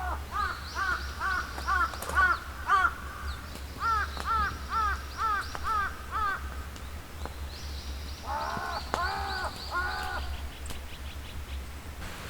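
Birds calling in three runs of short, harsh, caw-like notes, about three or four a second, with a thinner, higher-pitched call overlapping them. A steady low hum runs underneath.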